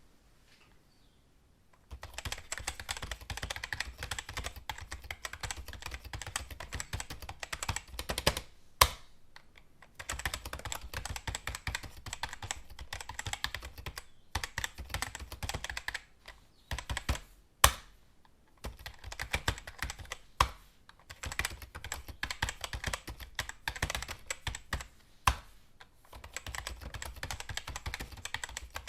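Computer keyboard being typed on in quick runs of keystrokes with short pauses between them, starting about two seconds in, with a few single louder key strikes standing out.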